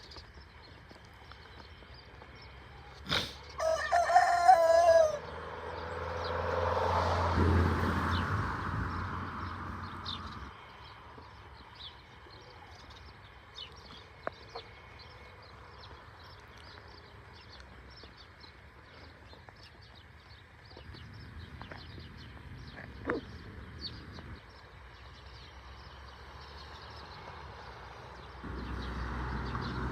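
A rooster crows once, loudly, a few seconds in, over faint scattered chirping. A low rushing noise then swells and fades away.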